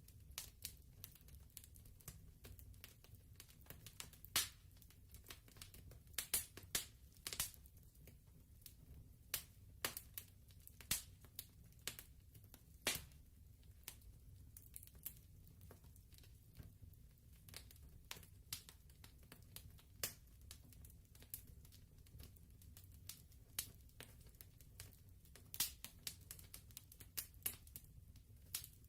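Wood fire crackling softly: irregular sharp pops and snaps over a low, steady rumble.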